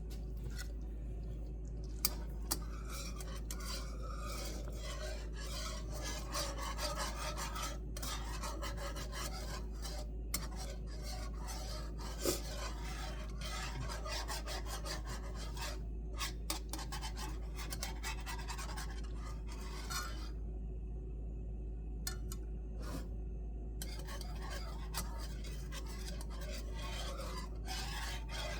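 A utensil stirring and scraping through thickening gravy in a large skillet: an uneven rasping with a few light clicks, over a steady low hum.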